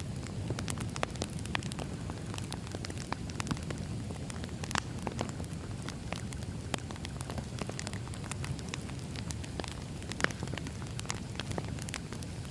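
Firewood burning, with irregular sharp crackles and pops over a steady low rumble of the flames. The loudest pop comes about ten seconds in.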